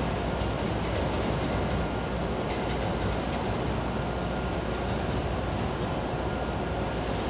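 JR West 683-series electric train rolling into the station to stop, a steady rumble of wheels on the rails with a faint steady high tone above it.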